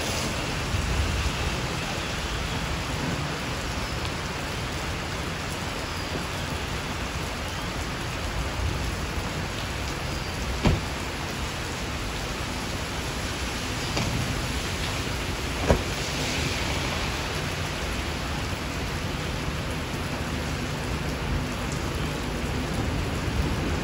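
Heavy rain falling steadily, an even hiss, with two sharp clicks about eleven and sixteen seconds in.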